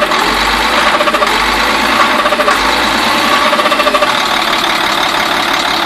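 International DT466E inline-six diesel engine running with a loud, rapid, steady knocking noise, which the owner takes for a high-pressure oil pump (HPOP) problem.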